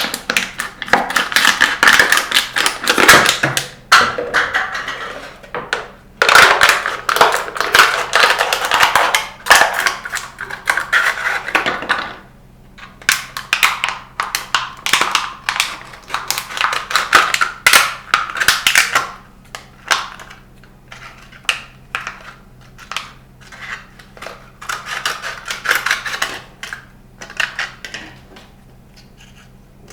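Plastic water bottle being cut to size, the thin plastic crackling and crunching in irregular bursts of rapid clicks.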